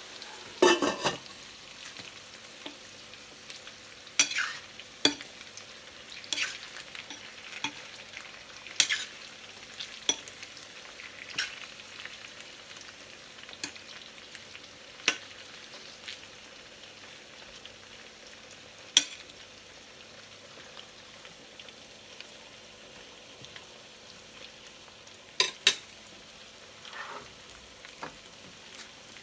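Chicken pieces frying in a pan: a steady sizzle with sharp clicks at irregular intervals, the loudest cluster about a second in.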